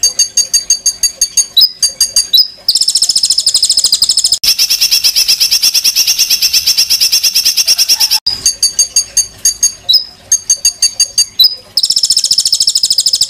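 A songbird singing harsh, rapid repeated high notes. Twice these break into long, fast buzzing trills: one of about five seconds starting near the three-second mark, and a shorter one near the end.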